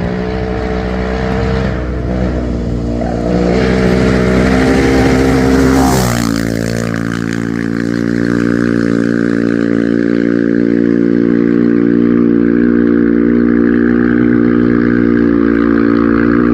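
Rally-raid vehicle's engine under load on a special stage, heard from onboard. Its revs waver for the first few seconds, then drop sharply about six seconds in with a short burst of noise, like a gear change. From then on it holds one steady note over a constant rush of tyre and road noise.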